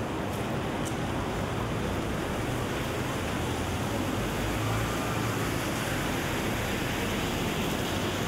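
Steady rain falling on a city street, an even hiss that holds at one level throughout.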